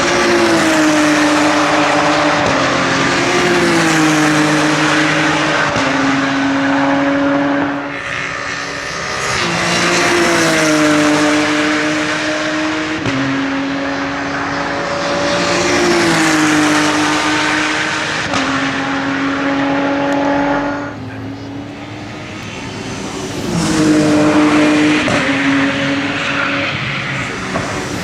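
Racing cars' engines running at high revs as a stream of cars goes by, with the engine pitch dropping as each wave of cars passes; some tyre noise mixed in.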